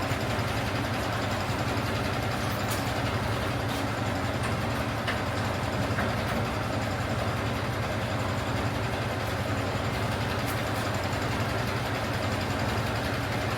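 Heavy diesel engine of harvest machinery running steadily at a constant speed, with a deep even hum.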